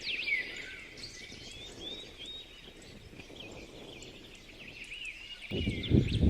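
Small birds chirping and twittering, many short rising and falling chirps. A loud, low noise comes in about five and a half seconds in.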